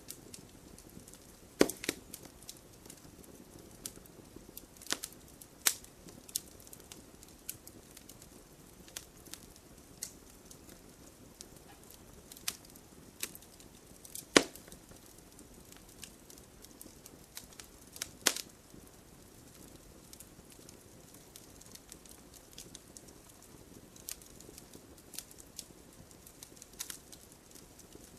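Wood campfire crackling, with irregular sharp snaps and pops over a faint steady hiss of burning.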